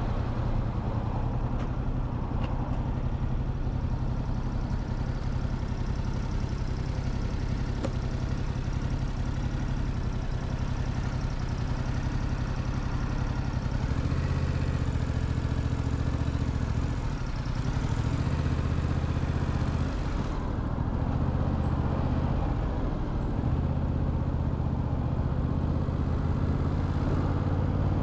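Motorcycle engine running at low, steady revs, with road and traffic noise around it.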